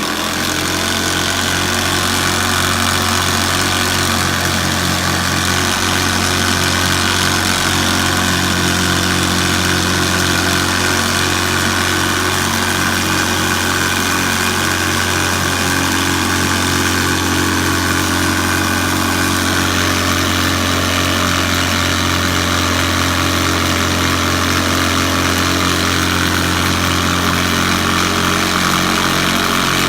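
Hoover Senior Ranger U4002 upright vacuum cleaner running steadily, its motor humming as the beater bar spins. The owner calls it a little rattly and suspects something loose underneath with the motor.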